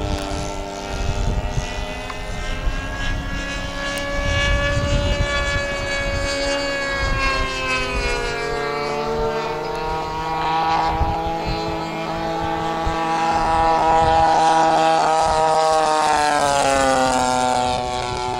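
P-51 Mustang's piston engine and propeller on a low fly-by, a steady drone whose pitch falls as the plane passes. It is loudest about three-quarters of the way through.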